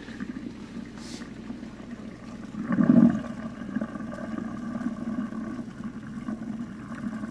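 Soapy wash water gravity-draining out of a twin tub washing machine's wash tub through its drain hose into a bucket: a steady running, gurgling flow, with one louder burst about three seconds in.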